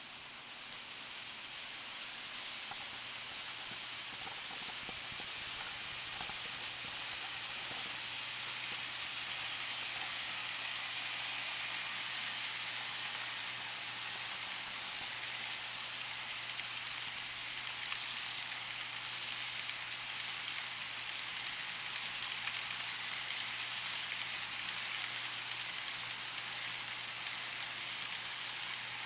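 N-scale model train running on the layout's track: a steady hissing whir of small wheels on rail and the locomotive's tiny motor, growing louder over the first several seconds and then holding steady.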